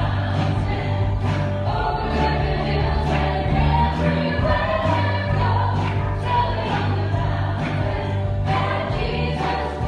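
Contemporary worship music: a song led by singers with a full band, with a steady beat and sustained bass.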